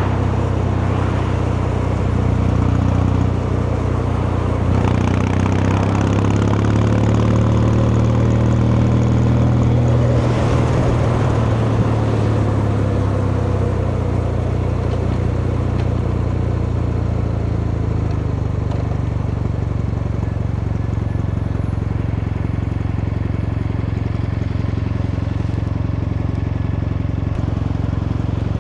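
Kawasaki Meguro K3's vertical-twin engine and exhaust under way. The engine note climbs a little in pitch about five seconds in, then holds steady.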